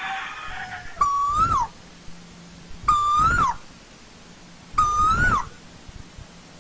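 Asian koel calling: a loud whistled note that holds, rises and then drops sharply, repeated three times about two seconds apart.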